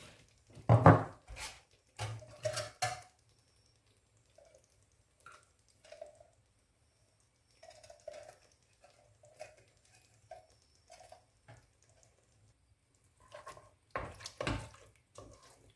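Utensils knocking and clinking against a cooking pan and dishes while food is portioned and stirred: several loud knocks at the start and again near the end, with quieter taps and scrapes in between.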